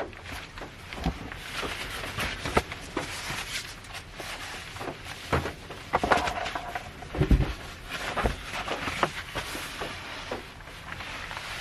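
Things being handled and shifted inside a car cabin: scattered clicks and knocks, with a heavy dull thump about seven seconds in, over a steady hiss of rain.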